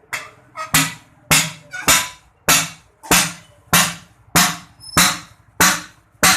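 Hammer blows on metal, striking about one and a half times a second in a steady rhythm, as cylinder sleeves are driven into a tractor engine block.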